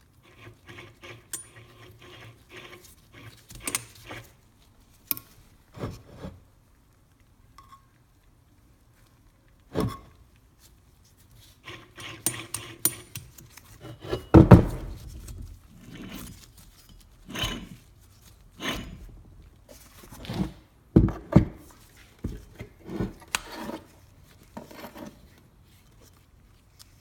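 Worn C5 Corvette wheel hub bearing spun by hand, giving a gritty, rasping rattle: the bearing has dried out. The rattle comes in a stretch at the start and again about twelve seconds in, between knocks and clunks of the hub assemblies being handled.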